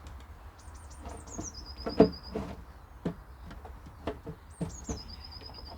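A small songbird sings twice: a run of high notes falling in steps into a short even trill. Under it come a few knocks and clatters as pipe parts are fitted together, the loudest about two seconds in.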